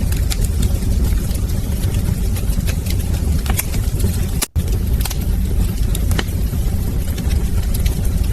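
Wood fire crackling, with scattered sharp pops over a steady low rumble of the flames. The sound drops out for a split second about four and a half seconds in.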